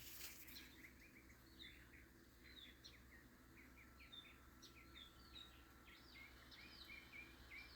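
Faint birdsong in the background: songbirds chirping in quick runs of short, high notes.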